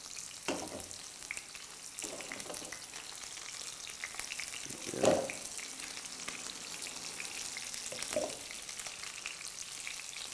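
Butterfly prawns shallow-frying in hot oil in a wide pan, with a steady sizzle and crackle. A few short louder sounds stand out, the loudest about halfway through, as more prawns are set into the oil by hand.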